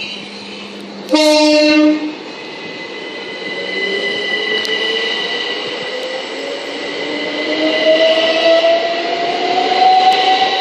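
A Southern Class 377 electric train sounds a single-tone horn blast lasting about a second. It then pulls away, its traction motors whining and rising steadily in pitch as it gathers speed.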